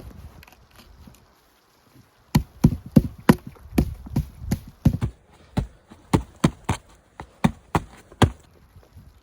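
A quick run of sharp knocks or blows, about twenty of them at roughly three a second, starting about two seconds in after some low rustling and stopping shortly before the end.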